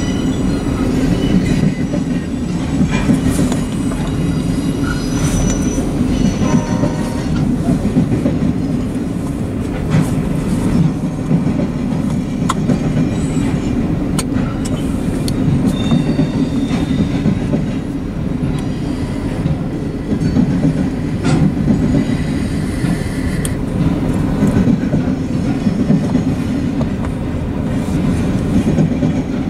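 Train flatcars rolling steadily past on the rails: a continuous rumble of wheels, with clicks over the rail joints and short high wheel squeals now and then.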